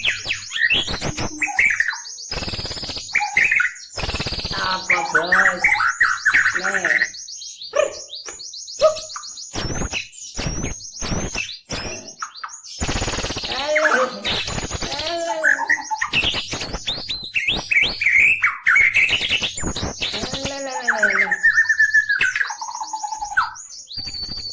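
White-rumped shama singing a long, varied song of whistled glides, quick trills and harsh clicking notes, with a long whistle near the end that falls in pitch.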